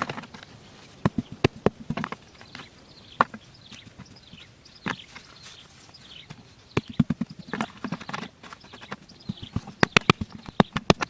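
Irregular series of sharp taps and knocks, coming in clusters and thickest near the end.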